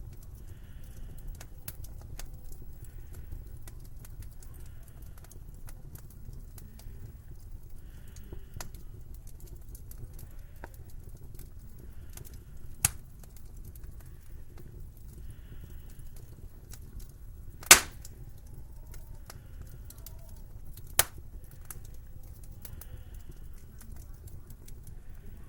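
Wood fire crackling in a fireplace over a steady low rumble, with small scattered clicks and three sharp pops, the loudest about two-thirds of the way through.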